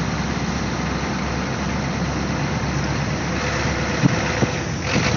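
1986 Ford F-250's 6.9-litre IDI V8 diesel running steadily and smooth as the truck is driven slowly, with a short knock about four seconds in.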